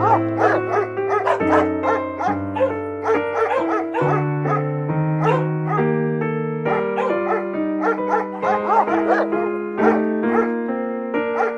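A dog barking in short, quick calls, two or three a second, over background piano music.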